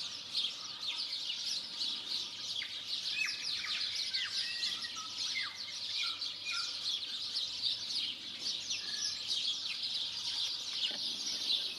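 Many birds singing at once: a dense, steady chatter of high chirps, with a few clearer, lower whistled notes between about two and seven seconds in.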